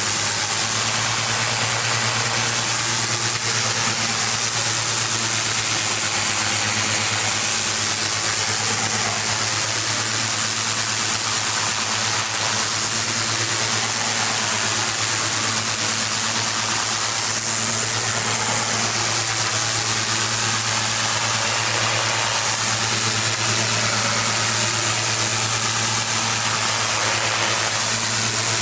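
Engine-driven pressure washer running steadily, its engine hum under the continuous hiss of the high-pressure water spray.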